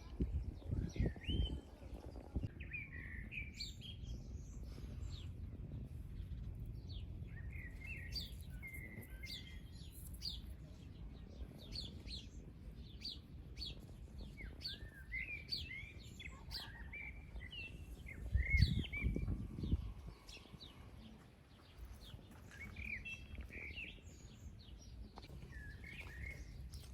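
Several small birds chirping and singing in short, varied phrases, over a low wind rumble on the microphone that gusts louder briefly near the start and again about two-thirds of the way through.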